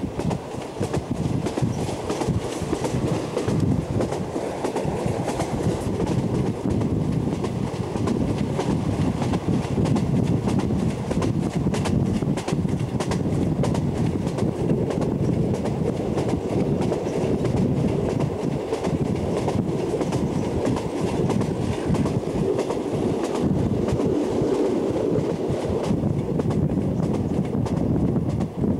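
A moving passenger train heard from an open carriage window: the steady rumble of the wheels on the track, with continual clatter and knocks from the rails and the running gear.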